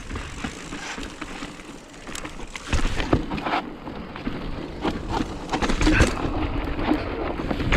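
Mountain bike rolling down a dirt trail: tyre noise over the ground with frequent sharp knocks and rattles from the bike over bumps, under wind buffeting on the microphone. It gets louder and rougher about three seconds in.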